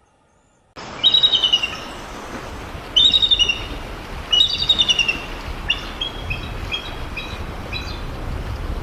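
An eagle screaming: bursts of rapid, high repeated calls, three loud runs in the first half, then softer, more spaced notes, over a low background rumble. The sound starts abruptly about a second in.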